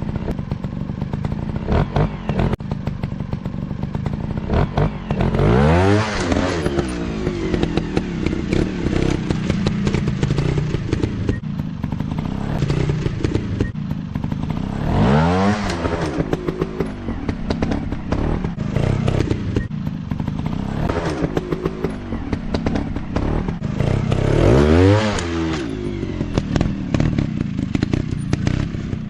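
Dirt bike engines running with three big rises and falls in pitch about ten seconds apart, each like a bike revving hard or passing close. Between them the engine noise continues at a lower pitch, with occasional clatters and thuds.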